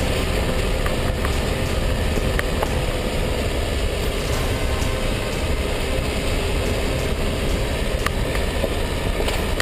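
Dacia Duster 1.5 dCi diesel 4x4 on the move: steady engine and road noise with a few small clicks.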